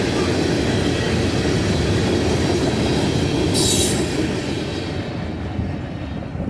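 Freight cars of a CSX freight train rolling past on the rails, a loud steady rumble and clatter of wheels. There is a brief high-pitched screech about three and a half seconds in. The sound falls away over the last second or two as the train draws off.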